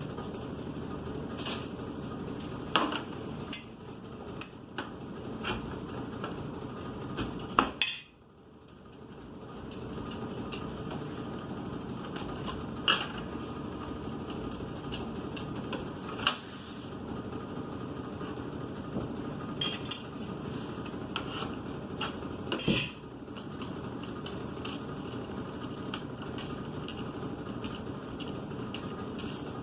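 Utensils and metal pans clinking and knocking now and then over a steady low background hum, with the sharpest knocks about three, eight and thirteen seconds in.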